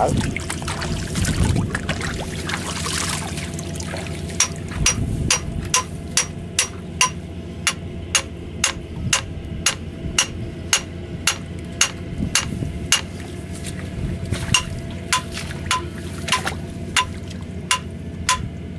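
Hammer blows on the steel cardan shaft of a tractor's rotary tiller, knocking it in and out to free it where it is stuck. The blows start a few seconds in and come at about two a second, each ringing sharply, over a steady low drone.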